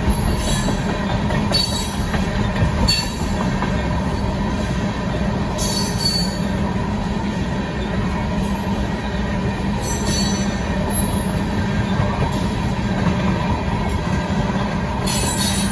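Loaded tank cars of a Union Pacific freight train rolling past at a grade crossing: a steady low rumble of steel wheels on rail, with brief high-pitched wheel screeches every few seconds.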